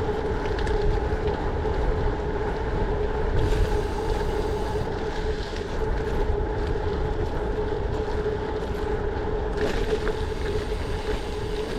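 Gravel bike rolling along at speed, heard through an action camera's microphone: steady wind buffeting with a continuous mid-pitched hum from the tyres and drivetrain.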